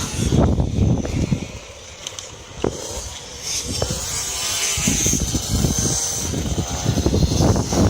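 Motocross bike engine revving and running on the track. The engine sound dips about a second and a half in, then comes back louder and stays up.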